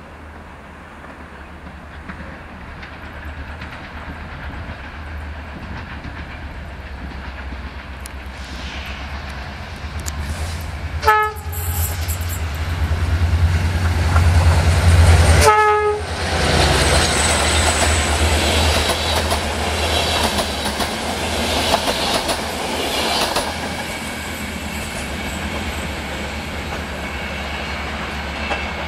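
Passenger train approaching and running past. Its horn gives two short blasts about four and a half seconds apart as the rumble builds to its loudest, then the wheels clatter over the rail joints as the coaches roll by and away.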